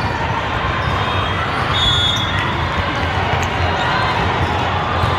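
Busy indoor volleyball hall din: steady background chatter of a crowd, with balls bouncing and being struck.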